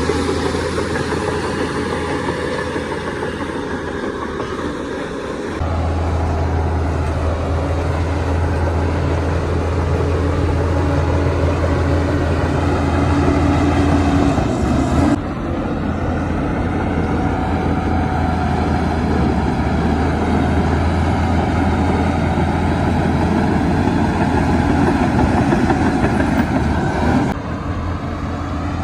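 Heavy diesel engine of earthmoving machinery running steadily with a deep drone. The sound changes abruptly three times: about a fifth of the way in, about halfway, and near the end.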